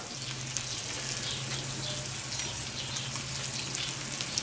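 Eggs, bacon and spring onions frying in a cast-iron skillet over charcoal: a steady sizzle with small crackles as the poured egg white sets.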